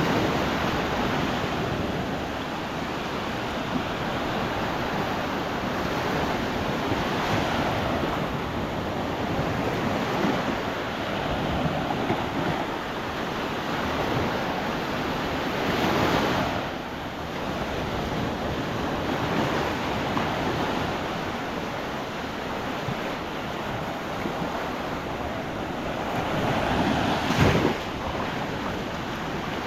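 Small Gulf of Mexico waves washing onto the beach, a continuous surf hiss with wind buffeting the microphone. The surf swells louder about halfway through and again near the end, where a brief thump is the loudest sound.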